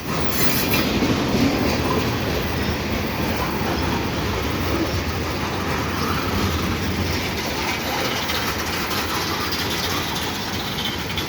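Freight cars of a long CN train rolling past on the rails, a steady rumble and rattle of wheels and car bodies.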